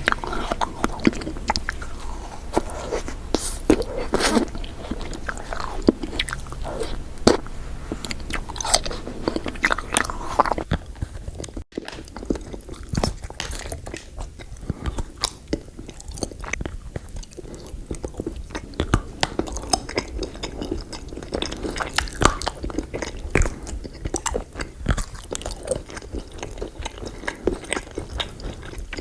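Close-miked eating of sweet desserts: repeated bites and chewing with crisp, crackling crunches. Near the middle the sound breaks off for an instant and picks up again with more chewing.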